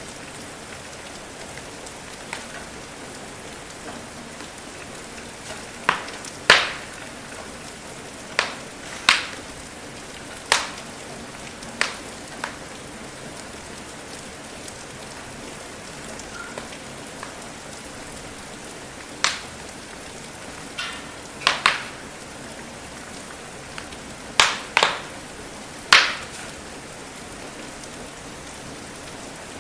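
Steady rain hiss with a wood fire crackling over it: about a dozen sharp pops of burning wood scattered through, some in quick pairs.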